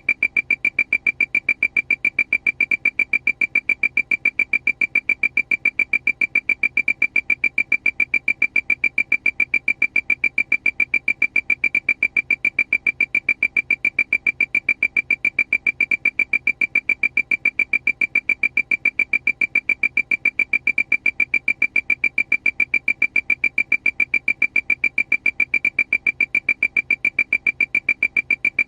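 Aircraft warning alarm: a high electronic beep repeating rapidly and evenly, several times a second, without a break.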